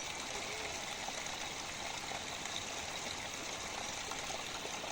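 Steady rushing of flowing water from a stream, an even unbroken wash of sound.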